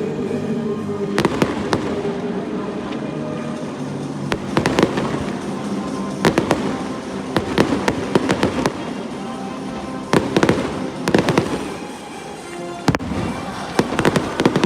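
Fireworks display: aerial shells bursting in quick clusters of sharp bangs and crackles, with music playing underneath.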